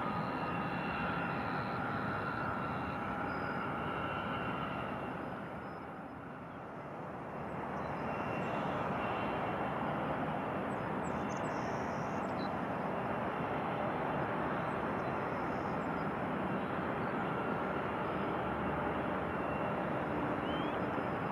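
Jet airliner engines running as a steady rush, with a whine in the first few seconds. The sound dips briefly around six seconds in, then builds back to a steady rush.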